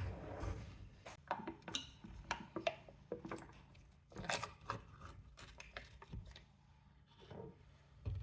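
Irregular small clicks, taps and knocks of objects being handled by hand at close range, a few strokes a second with pauses between.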